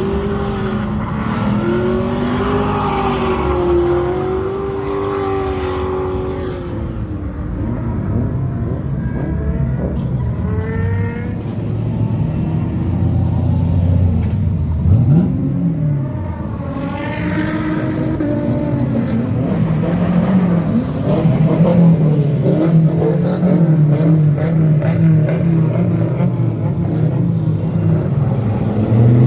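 Car engines running hard, their pitch rising and falling repeatedly as the throttle is worked, with one sharp rev about halfway through and a steadier sustained high engine note in the later part.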